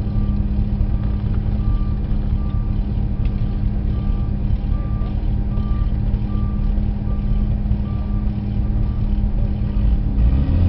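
A vehicle engine running with a steady low hum, and a short high electronic beep repeating about twice a second over most of it.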